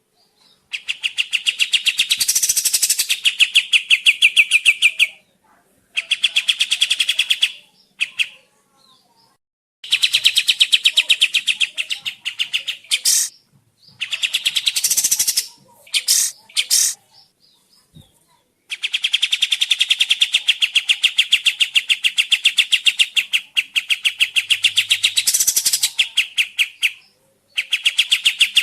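Kapas tembak bird song played as a lure recording: long, fast trills of rapidly repeated chirps, in bouts of a few seconds separated by short pauses.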